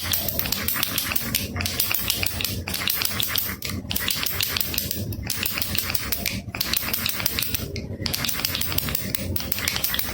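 Baby rattle shaken in quick strokes, its loose beads clicking in a dense clatter, with brief pauses about every one to one and a half seconds.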